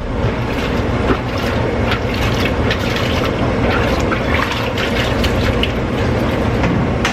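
Water running and splashing, a steady rush with many small crackling splashes over a low hum.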